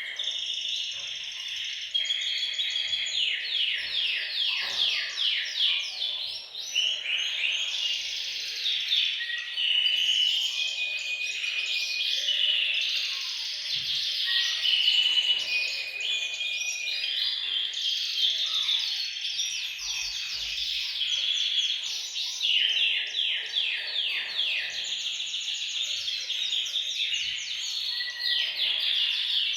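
Several male domestic canaries singing together in continuous, overlapping song: fast rolling trills alternate with held whistled notes.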